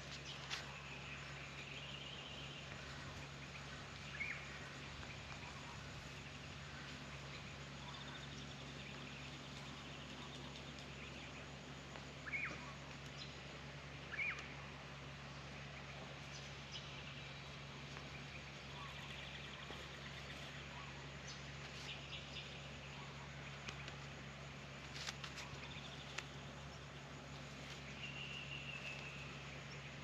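Faint backyard ambience: a steady low hum with a few short bird chirps, the clearest about four, twelve and fourteen seconds in.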